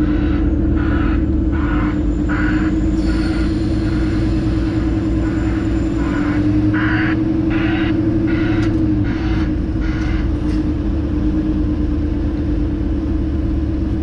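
Semi-truck diesel engine running steadily under light load, heard from inside the cab while the truck drives slowly. Short scratchy sounds come and go over it during the first ten seconds or so.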